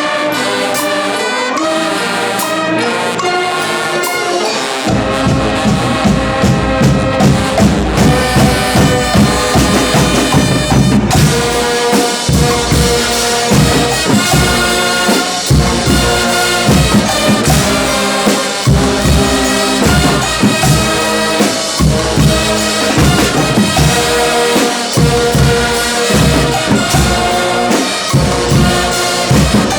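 Guggenmusik band playing: loud brass (trumpets and trombones) carrying the tune, with drums coming in about five seconds in and keeping a steady beat.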